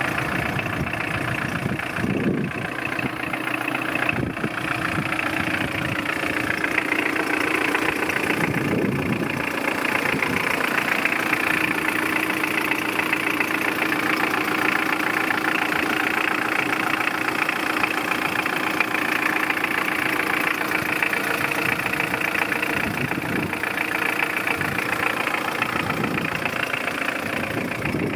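2001 Mitsubishi L200 pickup's engine idling steadily.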